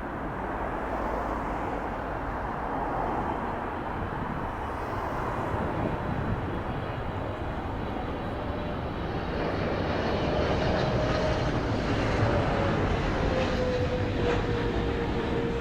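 Jet airliner's engines as the aircraft comes in to land and flies past. The roar builds from about two-thirds of the way in, with a whine that slides down in pitch near the end.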